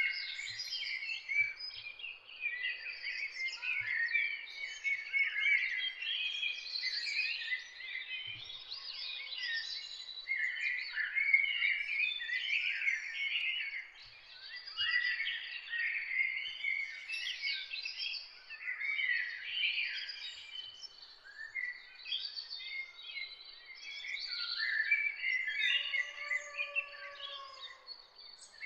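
A chorus of small songbirds singing and chirping over one another, many quick overlapping chirps and trills with no break. Near the end a lower, longer call joins in.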